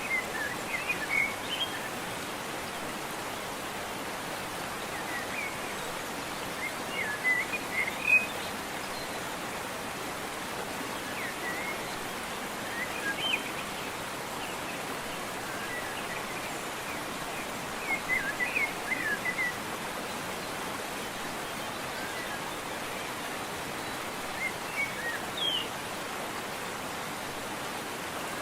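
Steady rushing of a waterfall, with small birds chirping in short twittering bursts every few seconds, five in all.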